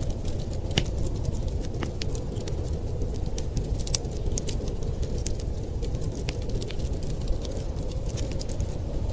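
Wood fire crackling, with many sharp pops and snaps at irregular moments, over a steady low rumble of wind.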